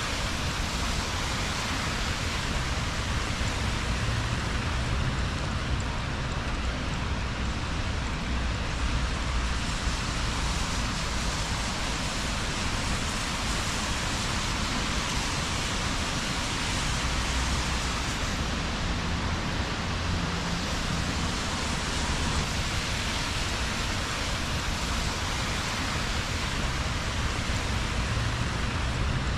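Steady rain falling on a wet city street, a constant hiss, with a low rumble of traffic that swells and fades.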